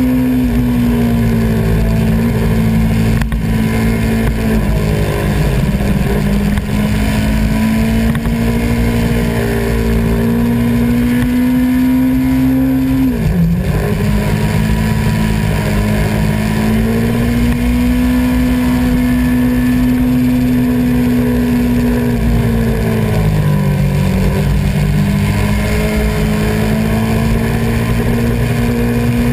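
Sport motorcycle engine heard onboard at speed, held at steady high revs with wind rush over the microphone. The engine note dips sharply about halfway through and climbs back, then sags again about three-quarters of the way in before rising.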